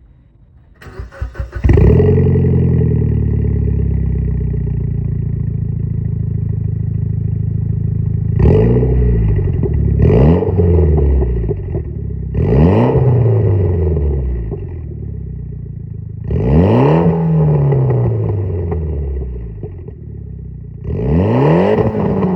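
Mitsubishi Lancer Evolution X's turbocharged 2.0-litre four-cylinder, breathing through a TOMEI full-titanium exhaust and SARD metal catalytic converter, cranks for about a second and starts. It settles from a raised idle, then is revved briefly five times, dropping back to idle after each rev.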